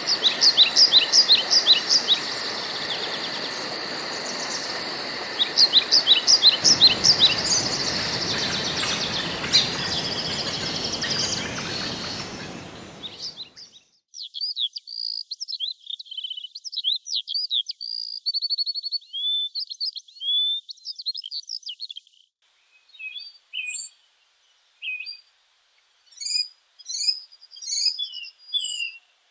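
Forest birds singing in quick, repeated chirping phrases over a steady hiss and a high, fast insect trill. About 13 seconds in, the hiss and trill fade out, leaving only bird song with silent gaps between phrases.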